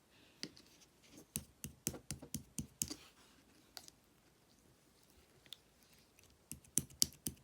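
Slime being squished and pressed by hand, giving clusters of sharp, wet clicks and pops: a dense run of them in the first three seconds and another near the end, with a quieter stretch between.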